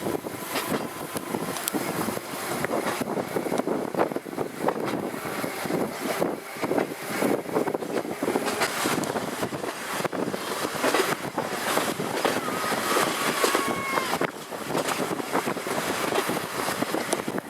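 Narrow-gauge electric tram running along its track, with a steady rumble and many small clicks and knocks from wheels and car body, and wind on the microphone. A short faint squeal comes about two thirds of the way through.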